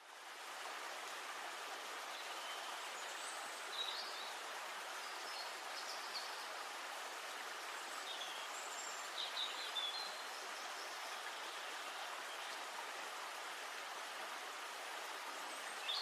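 Steady rush of flowing river water, with short bird chirps now and then above it.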